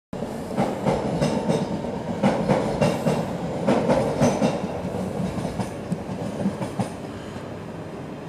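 Train running past on the station tracks, its wheels clattering over rail joints in a rapid run of clicks that thins out about seven seconds in, leaving a steady rumble.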